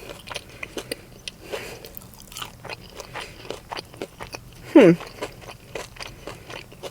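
Close-up crunching and chewing of a crispy breaded chicken tender, a run of many small crackly crunches. About five seconds in, a short vocal sound from the eater falls in pitch.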